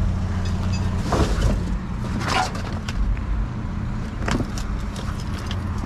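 A vehicle engine idling steadily, with a few separate knocks and rattles, typical of scrap metal being moved around in a dumpster.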